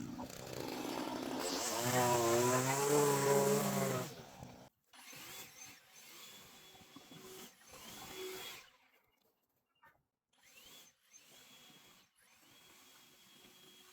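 Power tool motor running with its pitch wavering up and down, cutting off suddenly about four and a half seconds in; after that only faint, broken sounds.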